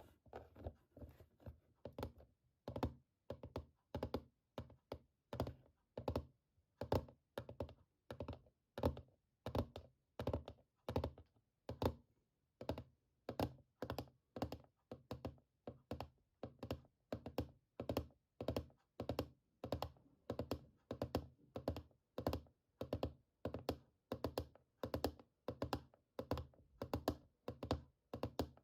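Fingertips tapping on an object, close to the microphone, in a steady even rhythm of about two short, dull taps a second.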